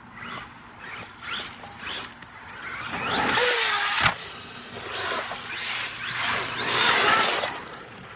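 Arma Mojave EXB RC truck driven hard on its motor. The whine rises in pitch in repeated throttle bursts and is loudest about three to four seconds in and again around seven seconds, with a sharp knock just after four seconds.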